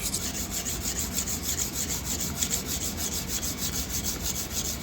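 A kitchen knife being sharpened: the blade rubs back and forth in quick, even strokes at a steady pace.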